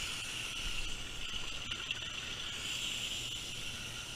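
Garden hose spraying water onto an air-conditioner condenser coil, a steady hiss of spray washing dirt off the fins.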